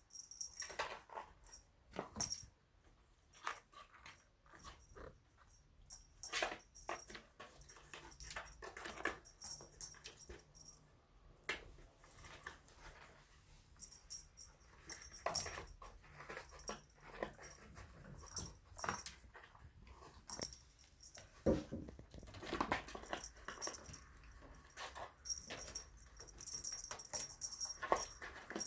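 Kittens playing in a cardboard box: irregular scratching, scrabbling and light knocks on the cardboard, mixed with small high kitten mews.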